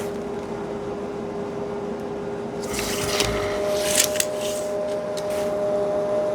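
A steady two-tone hum, with a few short scraping and clicking noises about three and four seconds in.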